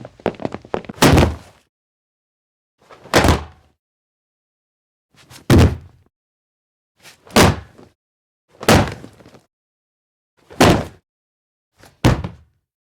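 Fireworks shells bursting, dubbed in as library sound effects: seven separate booms about every one and a half to two seconds, after a short run of crackling at the start.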